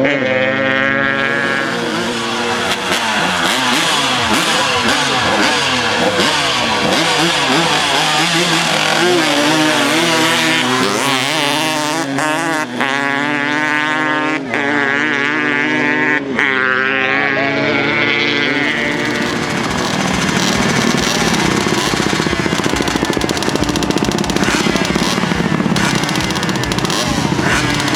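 Dirt-bike engines revving, the pitch climbing and dropping again and again; after about twenty seconds the sound turns rougher and more even.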